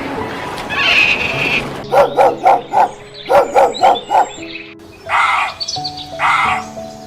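Animal calls over background music: a quick run of about eight short calls, then three longer calls a second or so apart.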